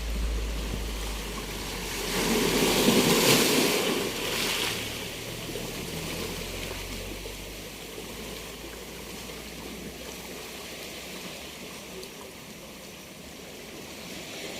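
Sea waves on a beach: one wave breaks with a loud rush about two seconds in, then the wash of surf slowly dies away.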